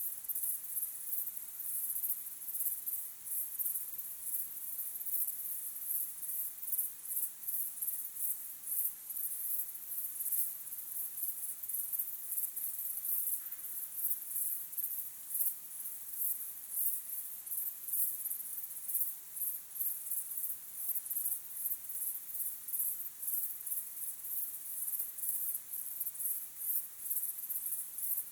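Crickets chirping in a steady, high-pitched chorus of rapid, evenly repeating pulses.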